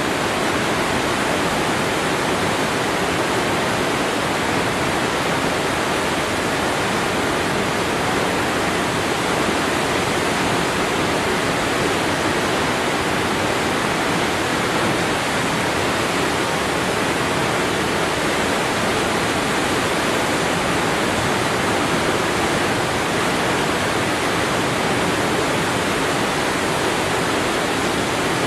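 Waterfall: falling water pouring with a steady, even rush that does not change.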